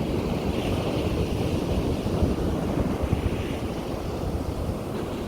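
Sea waves breaking and washing on a beach, a steady rushing surf with a hiss that swells and eases, while wind buffets the microphone with a low rumble.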